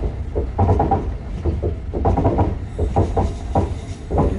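Passenger train running along the track, heard from inside the carriage: a steady low rumble with irregular clatter.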